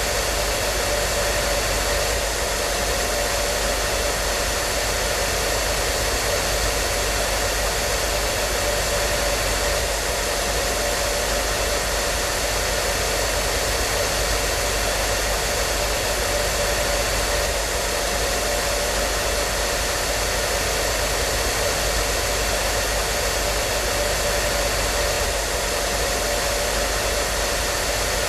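Hair dryer running steadily: an even, unchanging blowing hiss with a faint steady whine of its motor.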